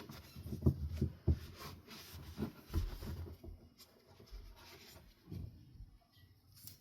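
Microfiber cloth wiping and rubbing a ceiling fan part in irregular strokes, with a few light knocks as the part is handled, mostly in the first half.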